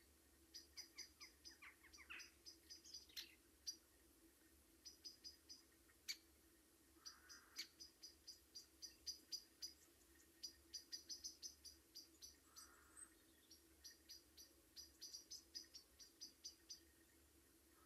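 Faint small birds chirping: quick runs of short, high notes repeating throughout, with a few lower sliding calls near the start, over a faint steady low hum.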